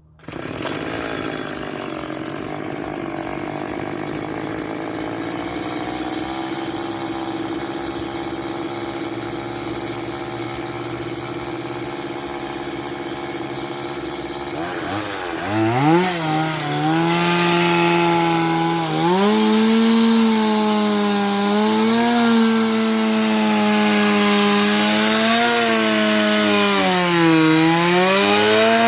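Two-stroke chainsaw engine running steadily, then revved up sharply about halfway through. It then drives a coupled drill attachment boring a hole, its pitch wavering and dipping several times as the bit is loaded.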